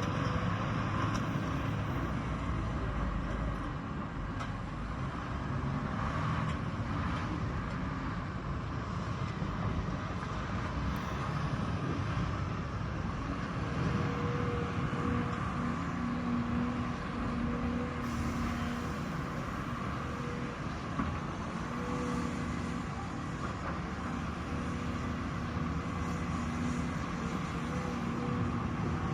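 Heavy construction machinery on an excavation and dredging job, engines running in a steady rumble. From about halfway through, a low hum comes and goes.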